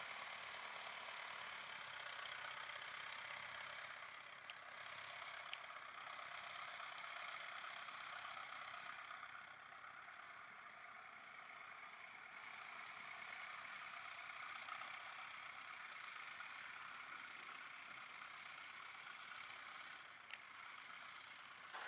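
Faint, steady tractor engine noise, with a few small clicks.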